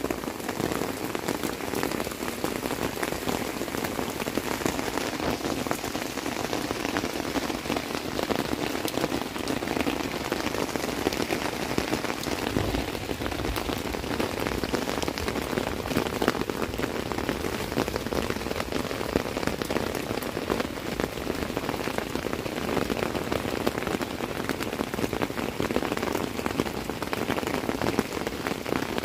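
Steady rain falling on the tent fabric, heard from inside the tent as a dense, even patter of drops.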